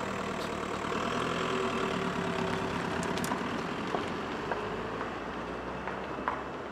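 Car engine running as it tows a boat trailer away down a street, growing slightly quieter toward the end, with a few light knocks.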